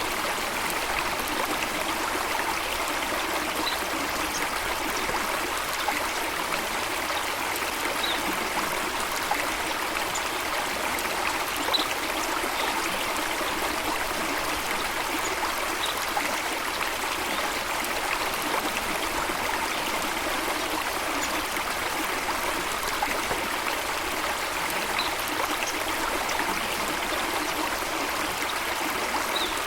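Steady rush and trickle of running water, with birds chirping faintly now and then, in short high notes.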